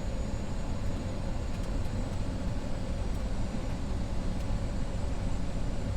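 Steady cockpit noise of an Avro RJ100 on short final: low rumble and airflow hiss from the airliner and its four turbofan engines, with a faint steady hum.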